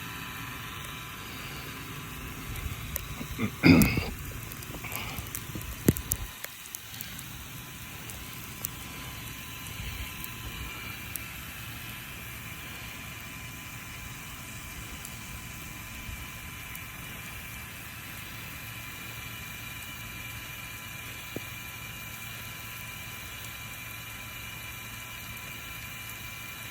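Brass Rain Jet 75C full-circle lawn sprinkler on a 3/4-inch supply spraying a heavy volume of water: a steady hiss of spray with a light, steady humming note from the turning head. A louder thump about four seconds in and a few sharp clicks around six seconds.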